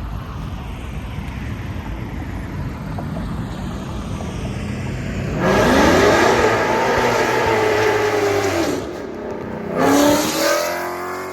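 A car engine idling with a low rumble, then revved hard about five seconds in. The pitch climbs, holds high for about three seconds and drops back. A second, shorter rev rises and falls near the end.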